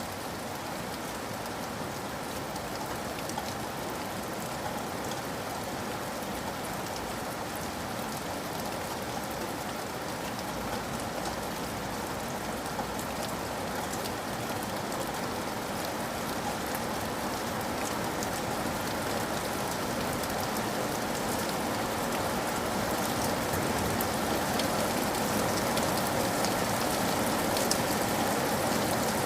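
Steady rain falling, with fine scattered drops ticking through it, growing gradually louder.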